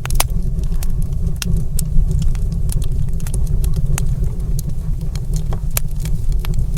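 Wood fire burning in a stone fireplace: frequent sharp crackles and pops at irregular intervals over a steady low rumble.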